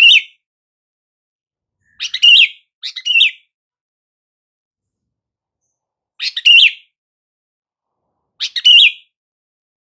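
Sooty-headed bulbul (kutilang) calling: five short, bright phrases with silence between them, two close together about two seconds in and two more spread through the second half.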